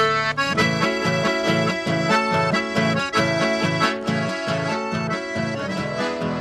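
Accordion-led chamamé music playing, with a steady repeating pulse in the bass.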